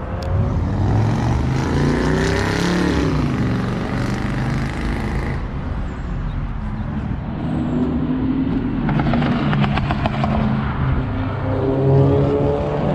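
Car engine running: its note rises and falls in pitch over the first few seconds, then settles into a steadier low drone, with a brief patch of sharp crackling about nine seconds in.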